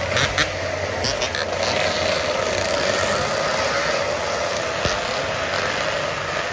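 Two-stroke Yamaha RX 115 motorcycle engines running with a steady, slightly wavering drone, a few sharp clicks in the first second or so.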